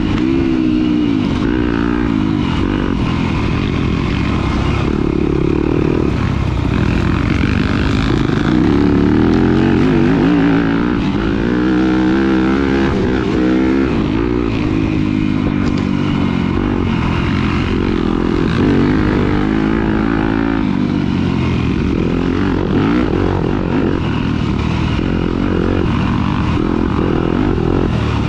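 A dirt bike engine racing, its pitch rising and falling over and over as the rider accelerates, shifts and backs off.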